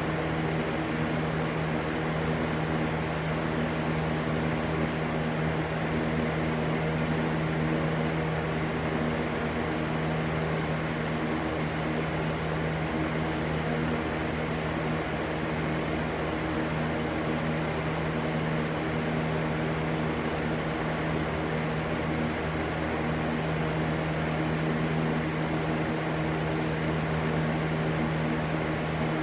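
Steady rushing white noise with a constant low motor hum and its overtones underneath, unchanging throughout, as from a running electric fan.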